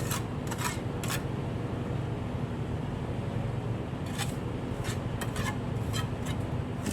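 Short scraping or rubbing strokes, about three in the first second and several more from about four seconds in, over a steady low hum.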